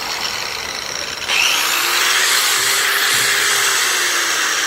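DeWalt D28499X large 7/9-inch angle grinder running with no disc load, a steady hissing motor noise that steps up louder about a second in.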